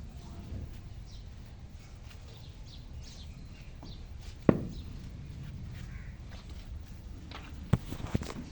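Donkey's hooves striking the ground: a few footfalls, with one sharp loud knock about halfway through and two more near the end, over a steady low background noise.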